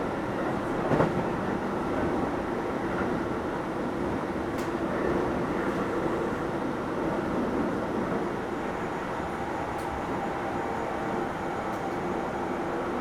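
Keio 7000 series electric train running at a steady speed, a continuous rumble of wheels on rail with a brief knock about a second in and a few faint clicks later.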